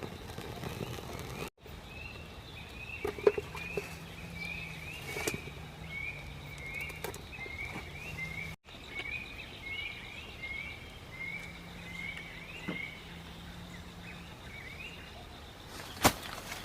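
Forest ambience: a small animal's short chirping call repeating about twice a second, with a low steady hum in two stretches and a few faint snaps. Sharp knocks come near the end.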